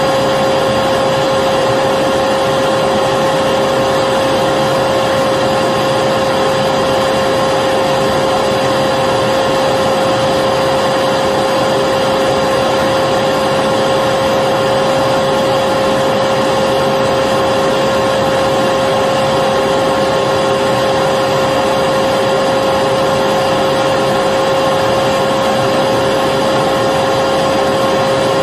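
Electric vacuum cleaner running continuously: a steady rush of air with a constant motor whine, holding the same pitch and level throughout.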